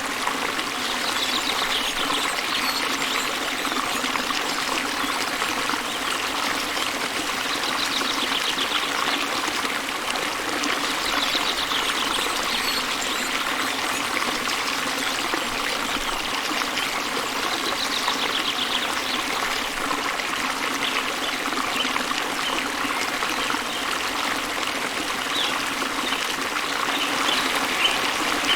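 Small waterfall splashing into a river, a steady rushing and trickling of water. A bird's high trill cuts in briefly several times.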